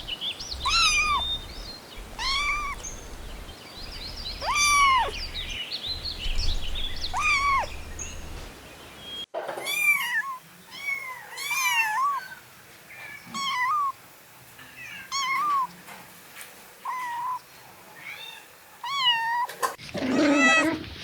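Repeated high-pitched cries of a young pet animal, each a short call that rises and then falls in pitch, well over a dozen in all. About nine seconds in there is an abrupt cut, after which a low hum underneath drops away and the calls come more often.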